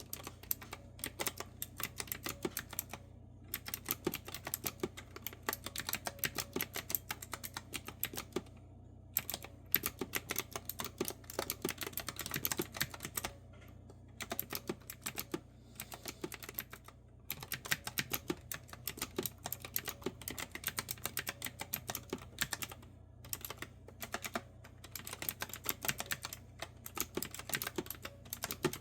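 Clicky round-keycap retro-style mechanical keyboard being typed on in a steady, irregular stream of sharp keystrokes, broken by short pauses of about half a second. A faint steady hum lies underneath.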